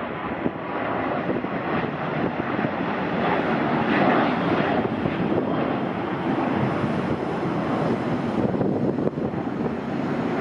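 Boeing 737-800 freighter's CFM56-7B jet engines at takeoff thrust, a steady rushing noise that grows loudest about four seconds in and then eases slightly as the airliner passes.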